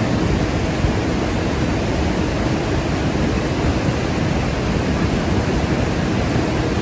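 Steady, even rush of a large waterfall.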